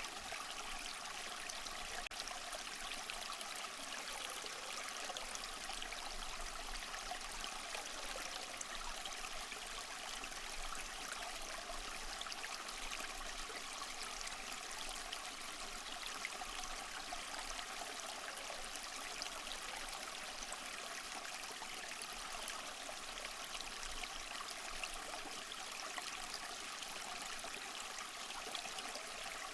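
Small waterfall splashing and trickling over moss-covered rock, a steady even rush of water.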